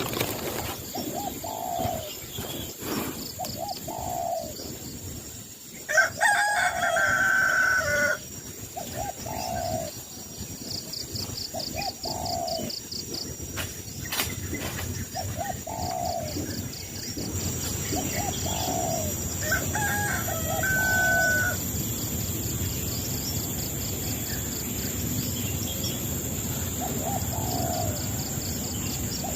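Bird calls: a short, low call repeats about once every second or so, with a longer, louder call about six seconds in and a brief whistle about two-thirds of the way through.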